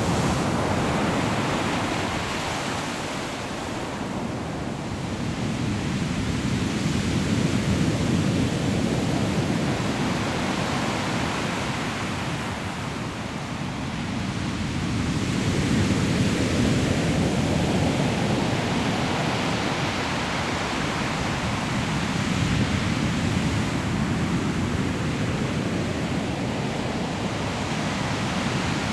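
Sea waves breaking on a pebble beach: a continuous rush of surf that swells and falls back, with a new wave breaking about every seven or eight seconds.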